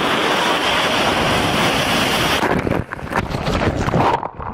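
Loud rushing noise of wind buffeting the microphone over open water or surf, cut off abruptly about two and a half seconds in, followed by a patchier, uneven noise.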